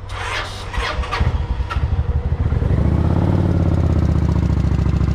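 Motorcycle engine being cranked, catching about a second in and settling into a steady idle. The bike has been started after sitting for a long while.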